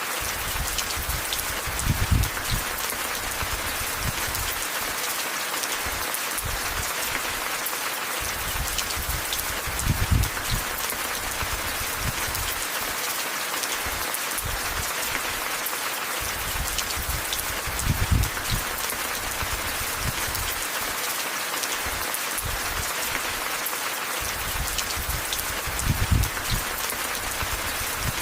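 Steady rain falling, with short low thuds that come back about every eight seconds.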